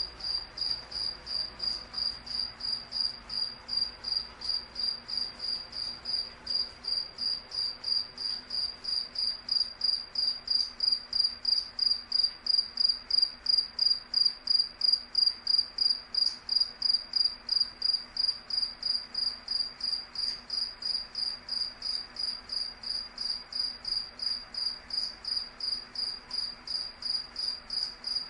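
A cricket chirping in an even, steady rhythm of about three high-pitched chirps a second, growing a little louder in the middle.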